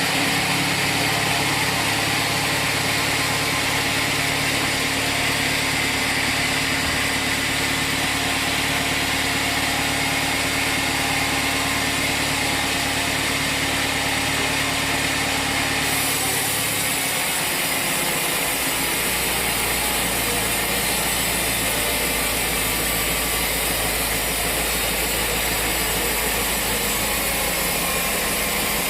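Sawmill machinery running steadily with an engine-like hum. Over halfway through, the hum changes abruptly to a different, lower steady drone.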